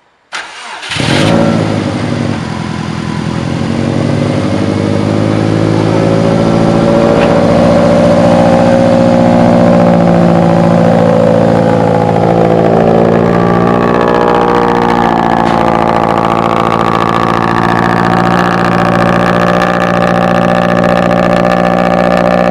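2005 Subaru Impreza WRX STI's turbocharged 2.5-litre flat-four cold-starting: a brief crank, the engine catches about a second in, then runs at a steady fast cold idle that grows a little louder over the first several seconds.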